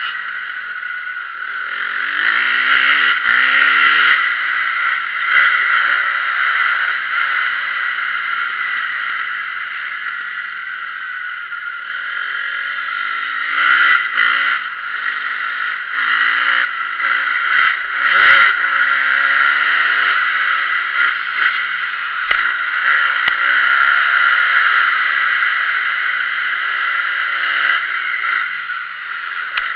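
Motocross bike engine revving up and falling back again and again as it is ridden around the track, under a steady loud hiss. There is a sharp knock about eighteen seconds in.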